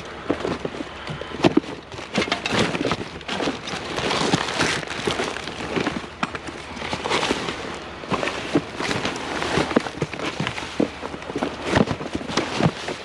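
Hands rummaging through a box of discarded odds and ends: continual rustling and crackling, with frequent sharp clinks and knocks of items being pushed aside.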